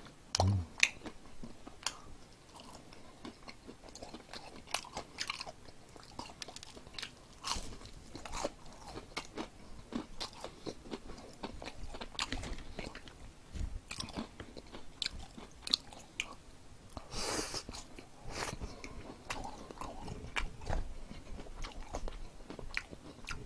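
Close-up biting and chewing of crispy fried chicken wing, the batter crunching in many short irregular crackles, with a louder crunch about 17 seconds in.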